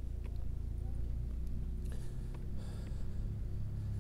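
Steady low rumble of an idling vehicle engine, with a few faint ticks.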